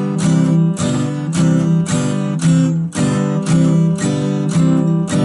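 Acoustic guitar strummed in a steady rhythm, about two strums a second, changing back and forth between G7 and C chords.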